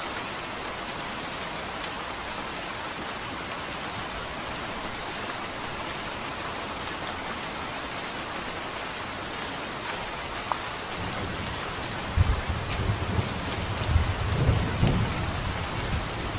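Steady rain falling, with a roll of thunder rumbling in about two thirds of the way through and cracking loudest near the end.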